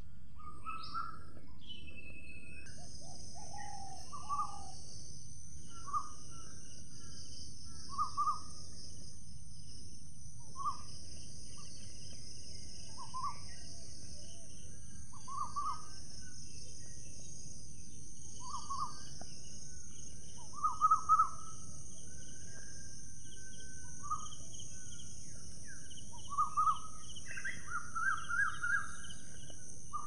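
A bird calling in short single notes roughly every two seconds, with quicker runs of louder notes about two-thirds through and again near the end. Under it run a steady high-pitched hiss and constant background noise.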